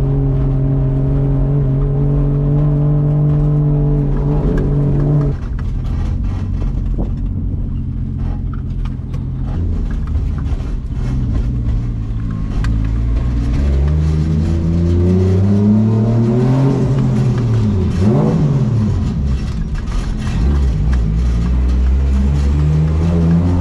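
Car engine running at steady revs, then easing off about five seconds in; around the middle it revs up and down several times before settling to steady revs again near the end.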